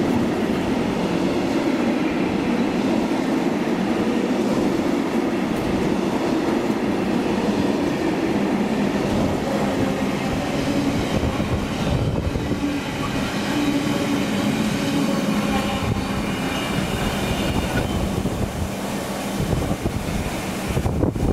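Container wagons of a long intermodal freight train rolling past on the rails, a steady rumble of wheels and wagons. The low rumble falls away shortly before the end as the last wagons go by.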